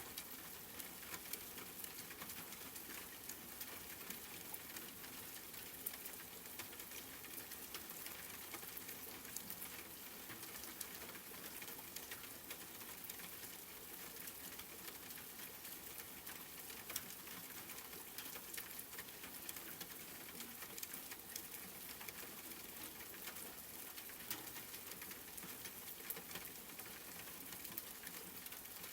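Steady rain pattering, with a dense hiss and many small drop ticks.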